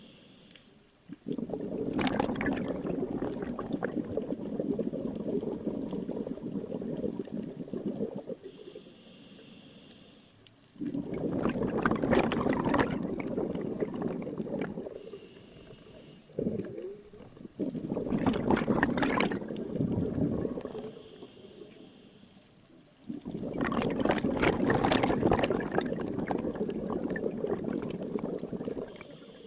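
Scuba diver breathing through a regulator underwater: four long exhalations of rushing, gurgling bubbles, several seconds each, with a quieter hiss of inhalation through the regulator between them.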